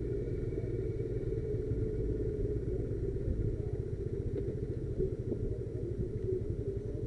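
Motorcycle running steadily on the move, its sound mostly low and even.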